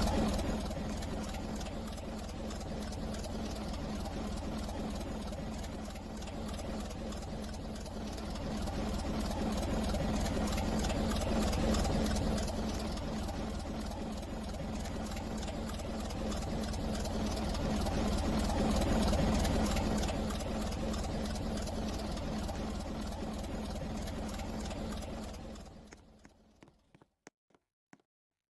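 Steady rumble of a moving train, with a constant low hum underneath, fading out near the end; a few faint clicks follow.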